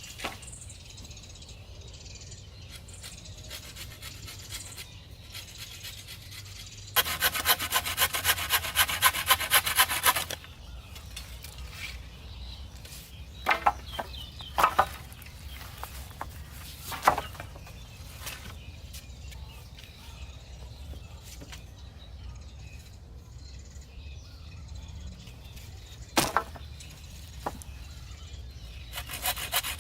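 Hand saw cutting wood: a run of quick back-and-forth strokes, about four a second, for roughly three seconds, then a few separate wooden knocks and a fresh bout of sawing at the very end.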